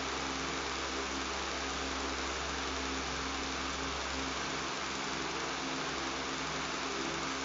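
Electric fan running steadily, a smooth airy hiss over a low, even buzzing hum.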